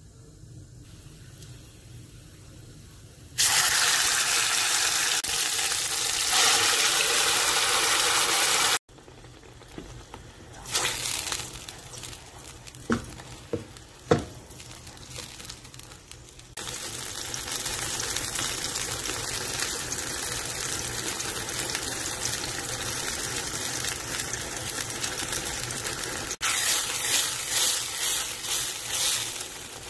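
Onion-tomato masala frying in hot oil in a steel pan, with a steady loud sizzle that stops and starts at several cuts. A few sharp clinks of a spatula on the pan come midway. A louder, pulsing sizzle near the end comes as the masala is stirred.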